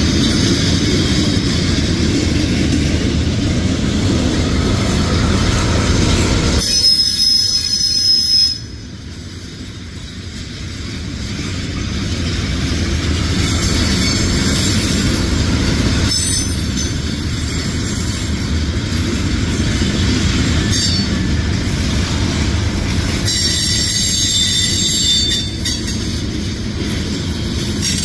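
Freight cars of a CSX manifest train rolling past: a steady rumble of steel wheels on rail, with high-pitched wheel squeal about seven seconds in and again over the last few seconds. The sound drops off suddenly about eight seconds in, then builds back up.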